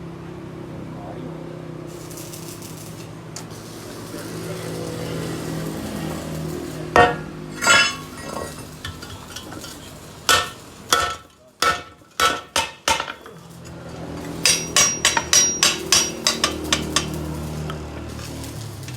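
Hammer blows on metal: two strikes, then a run of about six, then a quicker run of about ten, over a steady low hum.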